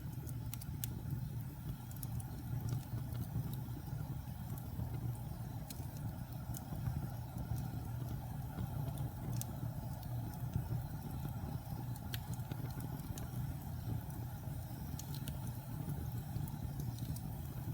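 Wood fire burning in a fireplace: a steady low rumble with scattered sharp crackles and pops of burning logs.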